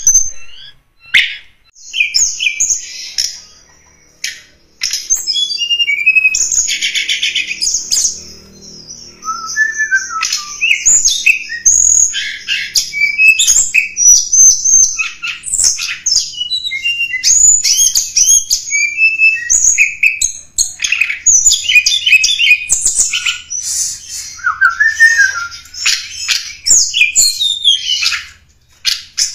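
Tledekan gunung songbird singing a rapid, varied song of high chirps, trills and short whistled glides, broken by brief pauses.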